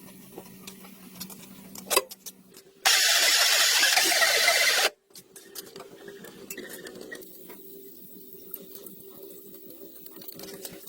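Light clicks over a faint steady hum, broken about three seconds in by a loud rush of noise that lasts about two seconds and cuts off suddenly.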